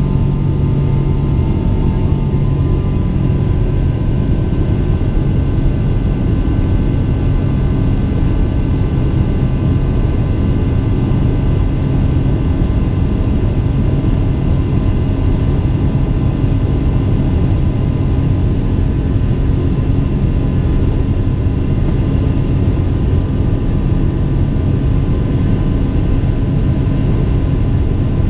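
Boeing 777-200 jet engines running with a steady roar and rumble, heard from inside the passenger cabin. Several steady engine whine tones shift to new pitches about two seconds in.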